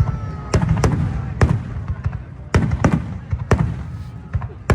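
Aerial fireworks bursting in quick succession: about seven sharp booms, each trailing off in a low rumble.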